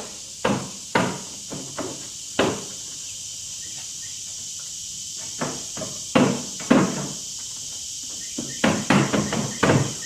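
Wooden coop panels knocking together as a roof piece is slid on and worked into line: a few scattered knocks, a pause, then a quick run of knocks near the end.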